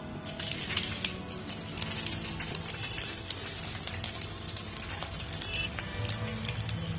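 Stuffed bitter gourds frying a second time in hot oil in a kadai: a dense sizzle and crackle with scattered pops, starting sharply just after the start.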